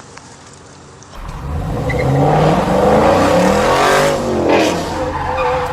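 A car engine revving hard, its pitch climbing for about two seconds and then falling away.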